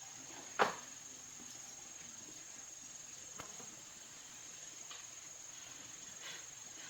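A steady high-pitched tone, with a sharp click about half a second in and a few fainter clicks later.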